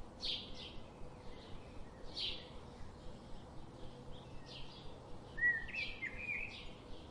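Several songbirds chirping over a steady hiss of background noise, short high chirps coming every half second or so, with a louder warbling phrase about five and a half seconds in.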